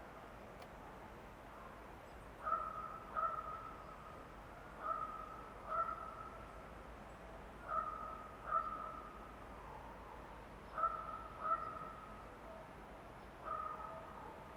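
A bird calling repeatedly in short pitched notes, mostly paired, a pair every few seconds, over a faint steady forest hiss.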